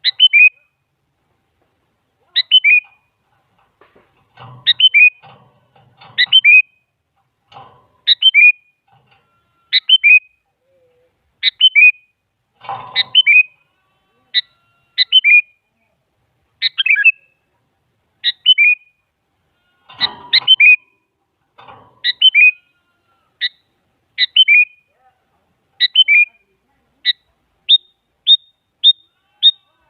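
Sooty-headed bulbul (kutilang) singing: a short phrase of three or four quick whistled notes, repeated about every one and a half seconds, giving way to single clipped notes at a quicker pace near the end.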